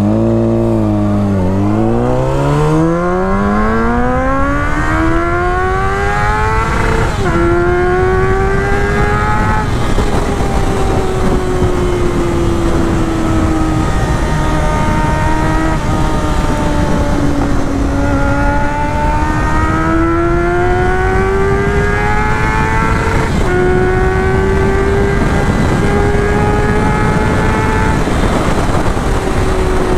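1999 Honda CBR600 F4's carbureted inline-four engine accelerating hard: the revs climb steeply, drop sharply at an upshift about seven seconds in, then climb again. The note then sags and rises more gently, drops at another shift about two-thirds of the way through, and holds a steady high note near the end.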